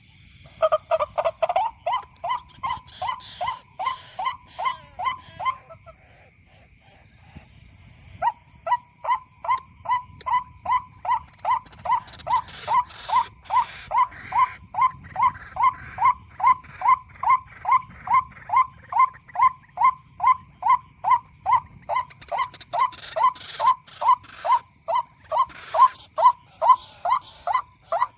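White-breasted waterhen lure call played from an MP3 speaker: a long, even series of short 'kwak' notes, about two and a half a second. It breaks off about six seconds in and starts again about two seconds later.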